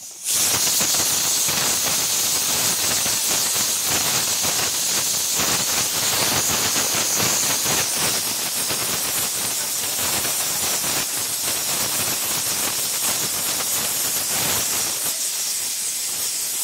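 Food frying in hot oil in a pan: a dense, crackling sizzle that starts suddenly and keeps up steadily.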